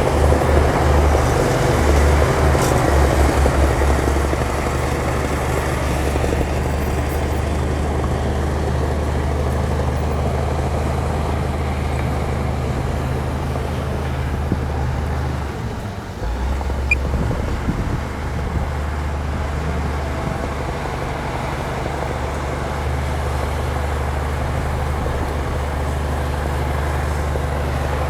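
Heavy diesel earthmoving machine running steadily under load, a deep steady engine note with a short dip in level about halfway through.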